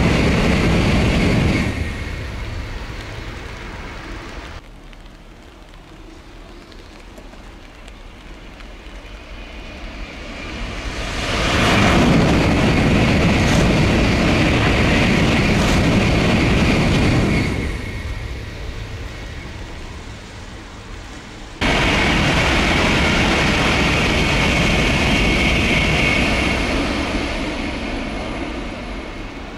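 N700-series Shinkansen high-speed trains passing at speed, a steady rushing of wheels on rail and air. The noise comes in three passes: one fading away in the first few seconds, one swelling up and dying away in the middle, and one that cuts in suddenly about two-thirds of the way through and fades near the end.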